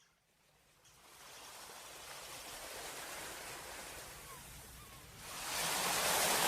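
Rushing water ambience, an even hiss, fading in from silence about a second in and swelling louder near the end.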